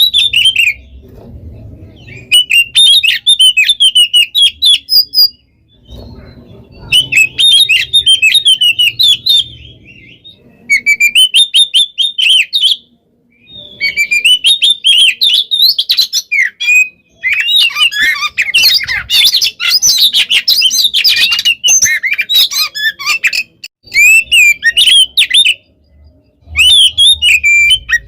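Oriental magpie-robin (kacer) singing loud, rapid whistled phrases full of mimicked fill notes, in bursts of a few seconds separated by short pauses, with the longest unbroken run about two-thirds of the way through.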